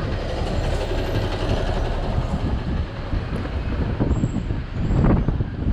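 Steady, loud rumbling vehicle noise, with a few faint high squeals about four seconds in.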